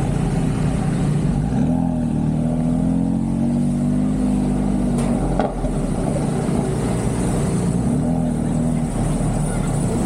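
Car engine running under way with steady road rumble, its pitch rising and falling as it accelerates and eases off, twice.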